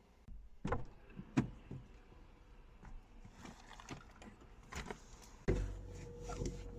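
A couple of sharp knocks and several lighter clicks, then, from near the end, a steady low hum with a faint steady tone.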